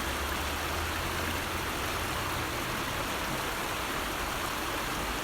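River water flowing, a steady, even rushing with a low rumble underneath that fades out about halfway through.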